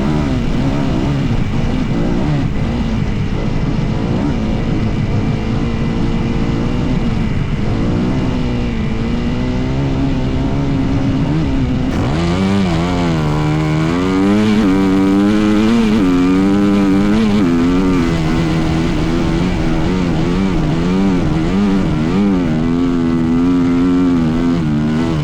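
Dirt bike engine running under changing throttle while riding, its pitch rising and falling repeatedly. About halfway through it turns louder, with quicker, deeper swings of revs.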